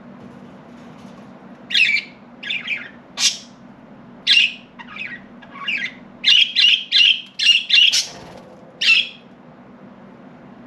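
Budgies chirping: about a dozen short, sharp, squawky calls starting about two seconds in, coming faster in a quick run near the middle, over a faint steady low hum.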